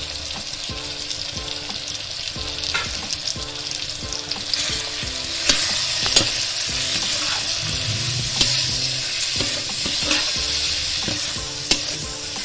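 Onion-tomato masala with freshly added ground spices sizzling steadily in hot oil in a kadai. A metal spatula stirs and scrapes it, knocking sharply against the pan every second or two.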